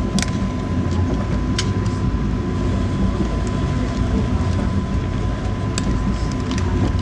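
Interior ride noise of an Amtrak Amfleet I coach at speed: a steady low rumble of wheels on rail, with a few short, sharp clicks over it.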